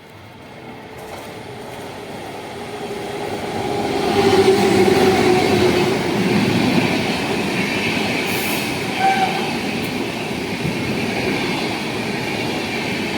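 Train approaching and running along the station track, steel wheels on rails, growing louder over the first four seconds and then holding steady.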